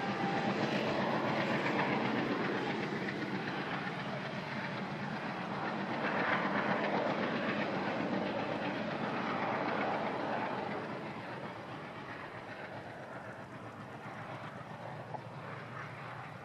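A train rolling past on the track, its wagons' wheels clattering over the rails, the sound fading away after about ten seconds as the train moves off.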